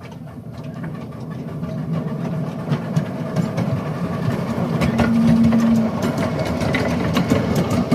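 Miniature railway train running on the club's track and growing louder as it approaches, with a low running rumble and the quick clicks of wheels on rail joints. A short, steady, low tone sounds about five seconds in.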